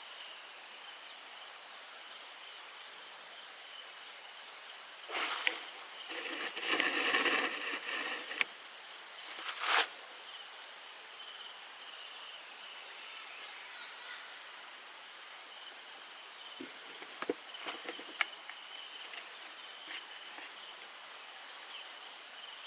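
Insect chorus: a steady, high-pitched shrill with one insect chirping in a regular pulse about twice a second.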